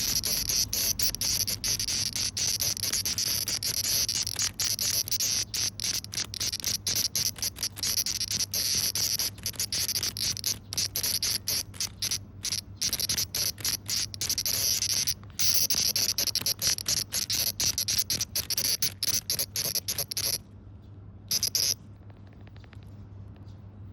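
A cicada buzzing loudly in rapid, broken, stuttering bursts, the distress call of a cicada held by a praying mantis. The buzz stops about 20 seconds in, then comes back in one brief burst about a second later.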